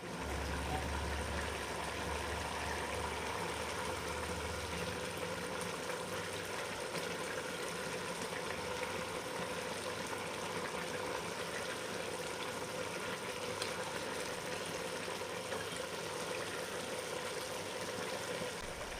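Biryani pot cooking on the stove, giving a steady, even boiling hiss. A low hum underneath fades about five seconds in.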